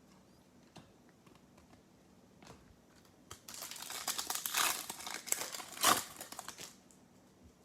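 Foil trading-card pack wrapper crinkling and tearing as it is ripped open, starting about three seconds in and lasting about three and a half seconds.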